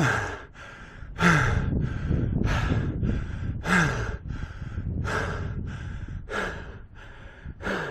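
A man panting hard from exertion, with a heavy breath about every second and a bit. Some exhales are voiced as short falling groans.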